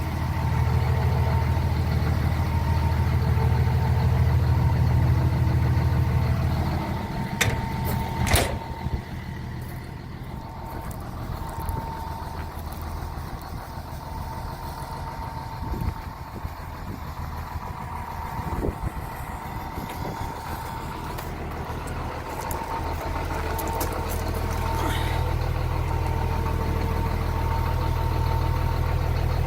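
John Deere 250G excavator's diesel engine running with a steady, faint high whine. The engine is loud at first and drops about seven seconds in, with two sharp clicks around then. It stays quieter for a long stretch and builds back up from about three-quarters of the way through.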